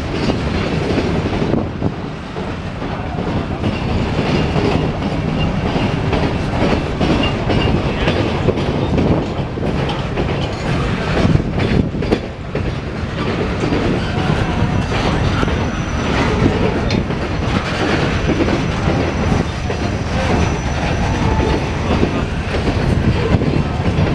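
Loaded steel coil cars of a freight train rolling past close by, a steady loud run of wheel clacks and rattling.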